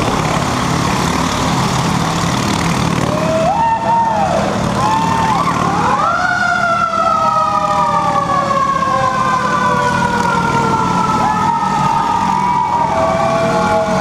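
1926 Indian Scout motorcycle engine running steadily as it circles the Wall of Death, with a siren sounding over it: short rising-and-falling whoops from about four seconds in, then a sharp wind-up about six seconds in that falls slowly away.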